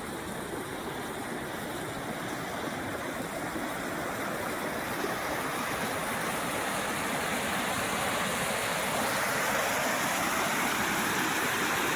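Floodwater rushing and pouring in a steady roar of flowing water, growing gradually louder toward the end.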